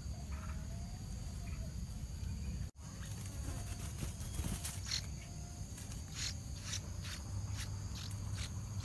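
Yellow-vented bulbul (trucuk) giving a run of short, harsh alarm notes, about two a second, in the second half, as the parent bird defends its chick against a cobra. A steady high insect drone runs underneath.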